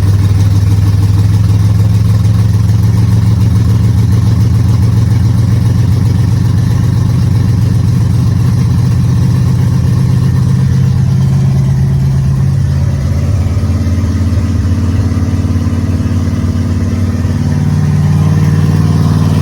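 Ford 429 big-block V8 idling loud and steady through open headers with no exhaust pipes, warming up after a cold start. The idle note shifts slightly about two-thirds of the way in and again near the end.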